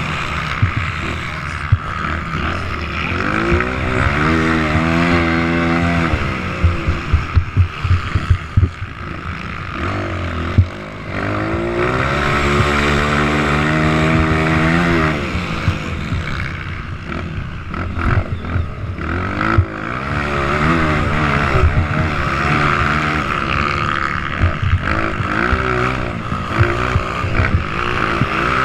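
Motocross bikes running on the track, engines revving hard with their pitch climbing twice in long pulls. Between the two pulls comes a quick run of sharp cracks.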